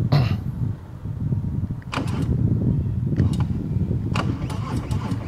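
Harley-Davidson Milwaukee-Eight 114 V-twin running at idle through Vance & Hines exhaust, a low uneven rumble, with a few sharp clicks over it.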